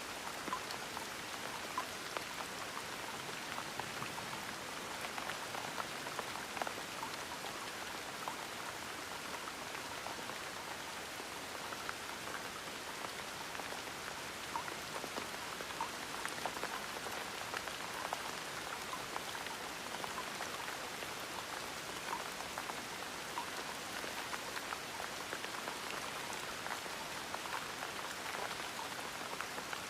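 Steady gentle rain: an even hiss of rainfall with many small drops pattering and ticking on a surface.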